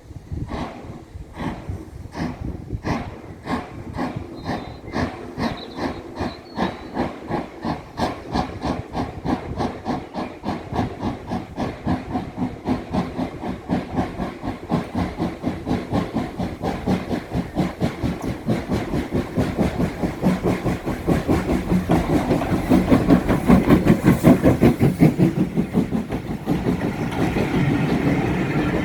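Steam locomotive pulling away, its exhaust beats coming steadily faster as it gathers speed, with hissing steam. It grows louder later on, passing closest about three quarters of the way through.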